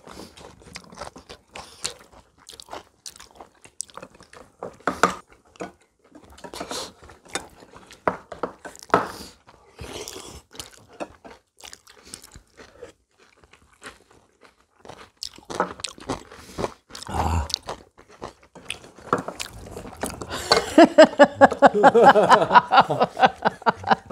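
Close-up chewing and crunching of food at a family meal, with small clicks scattered through it. About twenty seconds in, two people break into a run of laughter, the loudest sound.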